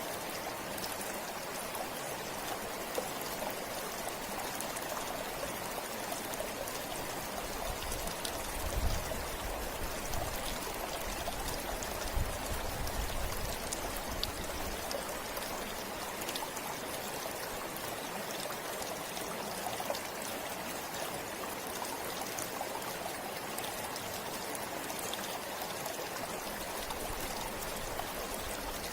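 Steady rushing of a flowing river, with small splashes ticking through it. A low rumble swells and fades between about a third and half of the way in.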